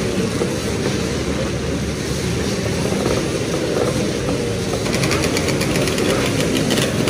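Two-stroke motorcycle engine running. About five seconds in, a close two-stroke motorcycle engine idles with a rapid, crackly firing.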